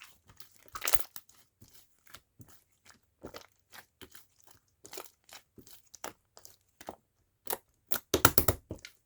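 Purple slime being pressed and kneaded, giving short irregular sticky clicks and pops, with a quick run of louder ones about eight seconds in.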